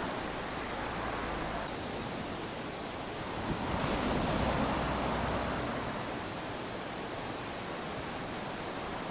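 Small waves lapping onto a sandy beach: a steady wash of surf that swells and falls back, with a stronger wave washing in about halfway through.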